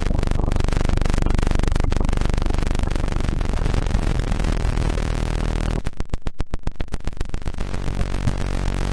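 Electronically generated tones: a dense noisy drone over low steady hums. About six seconds in it breaks into rapid pulsing, roughly eight pulses a second, for about a second and a half, then settles into a layered drone of many steady tones.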